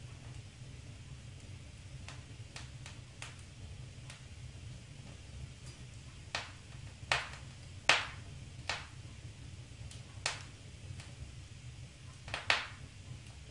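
Wood fire in a fireplace crackling: scattered sharp pops, faint at first, with about six louder ones in the second half, over a steady low rumble.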